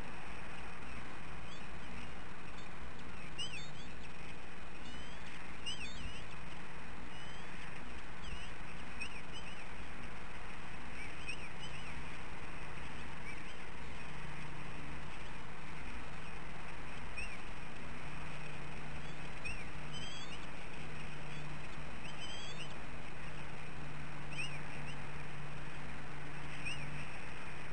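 Short, high bird chirps, scattered through, over a steady hiss and a low hum.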